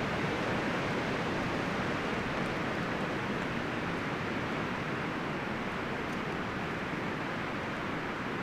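Wind blowing through forest trees, leaves and branches rustling in a steady, even rush that eases slightly toward the end.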